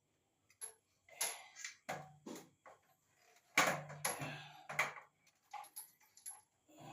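A series of irregular knocks and clatters, about a dozen sharp hits at uneven spacing, the loudest about three and a half seconds in.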